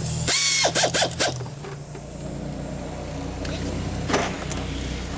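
A pneumatic impact wrench runs in a short burst about a third of a second in, with a whistling tone and a rapid rattle, while working the starter pulley off a small engine. A steady low machine hum follows.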